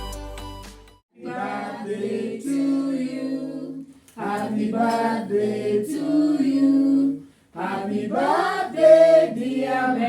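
A group of people singing together without accompaniment, in three phrases with short breaks between them. Background music fades out during the first second.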